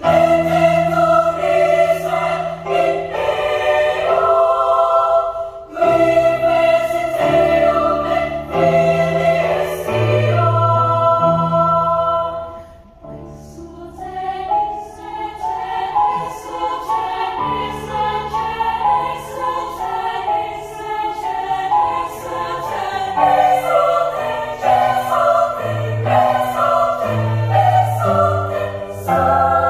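Children's choir singing in parts: long held chords first, a brief soft moment about halfway, then quicker, more rhythmic notes.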